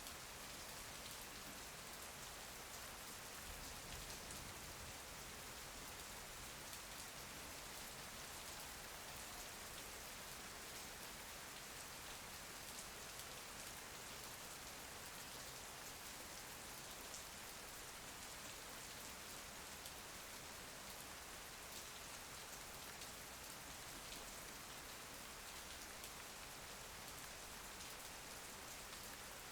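Steady rain falling, an even hiss with faint scattered drop ticks that never lets up.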